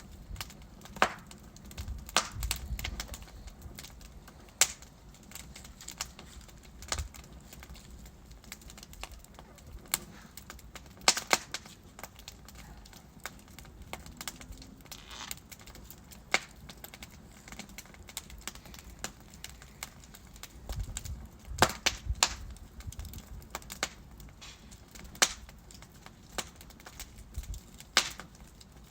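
Wood fire in a fireplace: burning logs crackling, with irregular sharp pops and snaps over a low steady hiss of flame.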